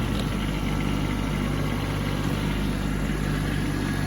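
Kubota B2601 compact tractor's three-cylinder diesel engine running at a steady speed, with no revving.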